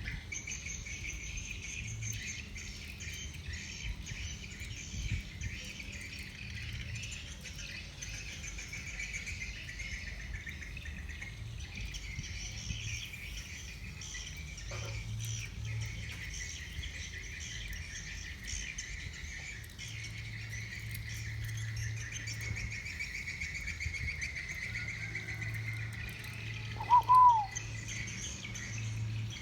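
A steady, dense high-pitched chorus of insects and chirping birds, with one short, loud arched call near the end.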